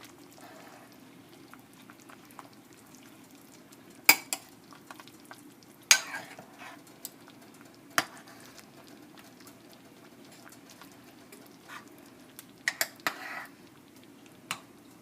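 Spoon stirring chicken in a simmering crock pot, over a faint steady bubbling. The spoon clinks sharply against the pot a handful of times.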